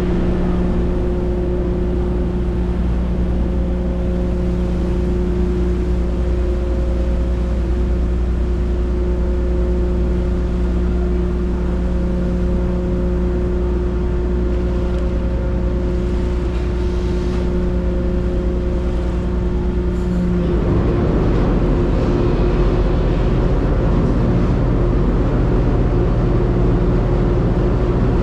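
Ferry's diesel engine running with a steady low drone and hum. About twenty seconds in, the sound turns rougher and a little louder.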